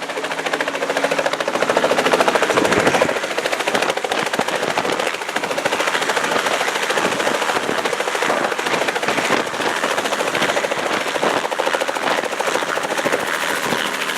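Robinson R44 helicopter in flight: its piston engine and rotor make a loud, steady, rapid chatter.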